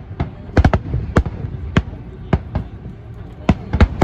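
Aerial fireworks going off: an irregular volley of about a dozen sharp bangs, some in quick pairs and triples, over a low rumble.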